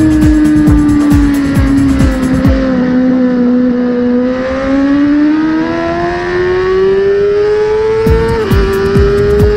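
2019 Suzuki GSX-R1000R inline-four with a K-Factory full exhaust and Asahina silencer, heard onboard. The engine note falls as the bike slows into a corner, then rises steadily under hard acceleration out of it, with one quick upshift near the end. At high speed, wind buffets the microphone in a rapid thumping.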